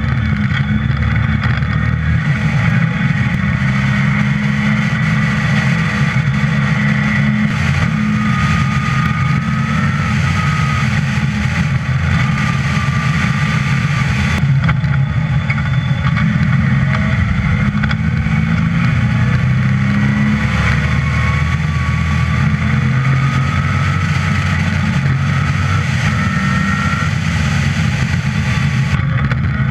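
Dry-sumped 5-litre V8 of a Westfield sports car running hard at track speed, heard from onboard, its note rising under acceleration and dropping back as the driver lifts and shifts.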